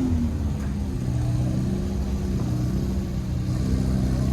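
A car engine running steadily at low speed.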